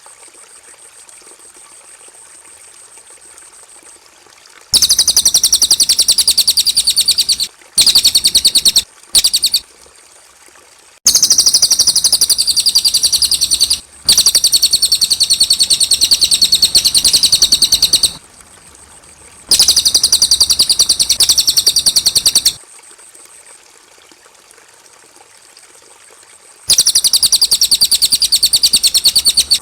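Cililin bird singing: bouts of a very rapid, high trill, each two to four seconds long, separated by short pauses. A thin steady high tone runs under the pauses.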